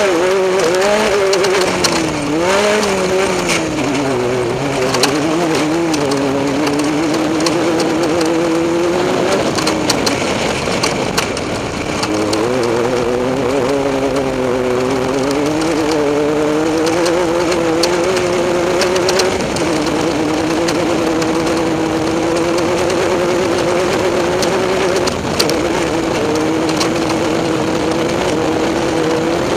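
Off-road race vehicle's engine running under load over a steady rush of noise. Its pitch swings up and down with the throttle for the first several seconds, dips about twelve seconds in, then holds nearly steady and slowly climbs.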